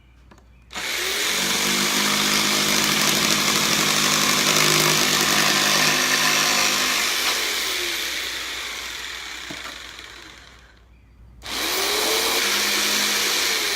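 Corded electric jigsaw cutting wood. The motor spins up about a second in and runs steadily for several seconds, then slows and stops around ten seconds in, and starts up again about a second later.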